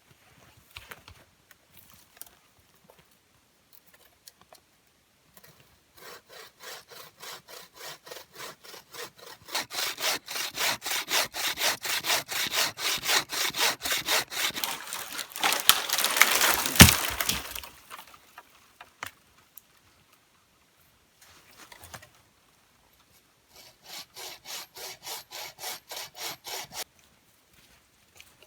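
Hand saw cutting through wood with steady back-and-forth strokes, about two to three a second. The strokes grow louder and end in a sharp crack as the cut goes through. After a pause, a second shorter bout of sawing follows.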